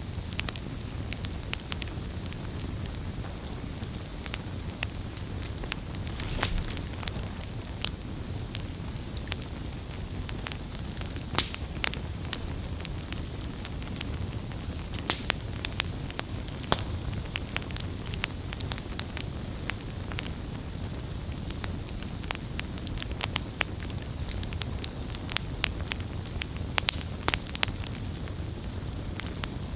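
Wood campfire crackling, with frequent irregular sharp pops over a steady low rumble of burning.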